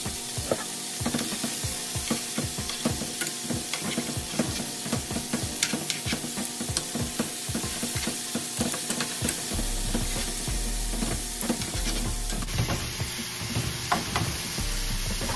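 Chicken pieces and chopped sweet peppers and onion sizzling in butter in a frying pan over medium-high heat, with a utensil stirring the food and knocking and scraping against the pan in many small clicks.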